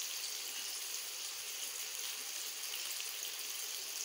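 Onion and tomato masala frying in a wok, giving a steady sizzling hiss.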